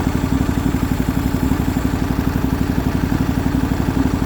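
MTD Yardman riding lawn tractor's engine running steadily at idle, its firing pulses evenly spaced.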